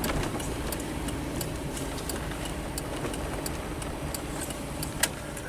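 Vehicle driving slowly over a rough, wet back road, heard from inside the cab: a steady low rumble with frequent small clicks and rattles, and one sharper knock about five seconds in.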